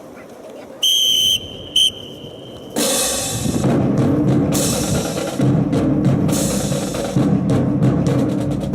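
Two high whistle blasts, a longer one and then a short one, followed about a second later by loud drum-led music with a steady beat.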